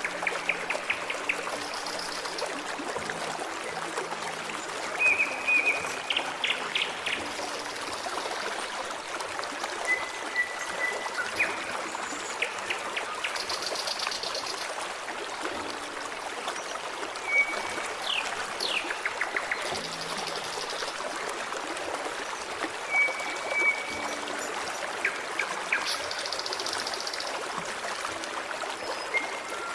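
Forest stream running with a steady babble, while a bird calls every few seconds: a short whistled note followed by a quick run of chips, with a few higher buzzy notes between.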